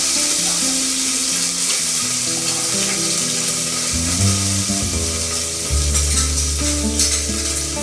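Food sizzling in a frying pan, a steady hiss with some stirring, over soft background music.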